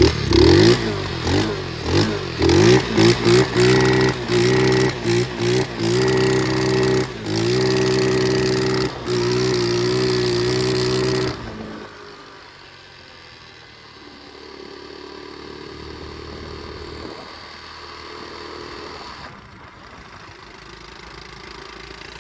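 Pit bike engine revving in a run of short throttle blips, its pitch rising and falling with each one. About halfway through it drops away to a much quieter, steady low running.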